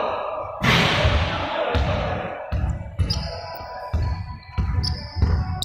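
A series of dull thuds, roughly two a second and a little uneven, over a noisy background.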